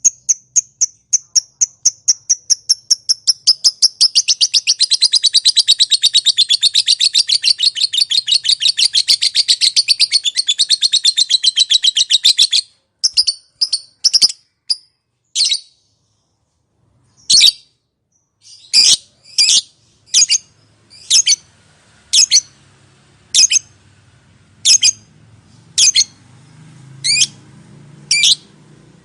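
Lovebird singing its long 'ngekek' chatter, a rapid run of sharp high notes at about eight a second that goes on for some twelve seconds. After a short break it gives single sharp chirps about once a second.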